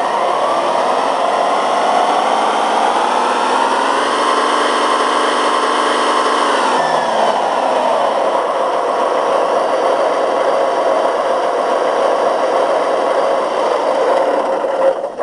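Large tractor's engine running, revving up over the first four seconds, holding high, then dropping back to a steady lower speed about seven seconds in.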